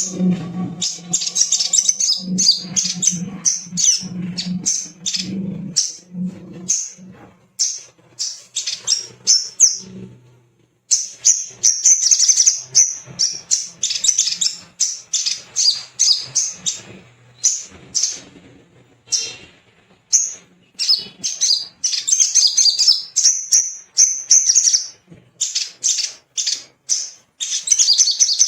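A sogok ontong (sogon) bird calling continuously: fast series of high, sharp chips and chattering trills in rapid bursts, with a brief pause about ten seconds in. A faint low hum sits under the calls for the first few seconds.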